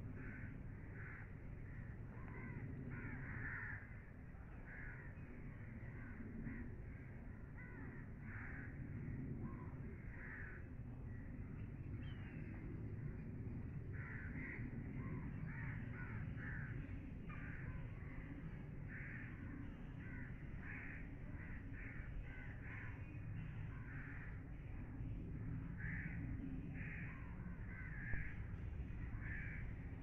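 Birds calling over and over, short calls about one or two a second, over a steady low rumble.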